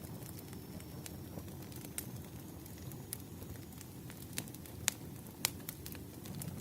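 Wood fire crackling: scattered sharp pops and snaps over a low steady rumble, with a few louder pops past the middle.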